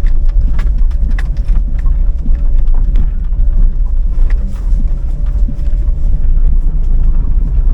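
Gale-force wind buffeting the microphone in a deep, loud rumble, over a car driving along a road, with scattered clicks and a faint steady tone that stops about six seconds in.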